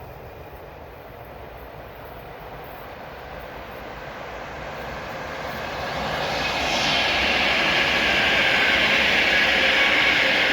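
A train approaching and then passing close by on the line, its wheel-on-rail rushing noise rising over several seconds and turning loud about two-thirds of the way in.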